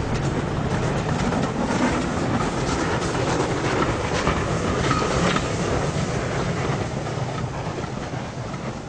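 Steam-hauled passenger train rolling past, its carriage wheels clattering over the rail joints with a clickety-clack. The sound fades as the train draws away near the end.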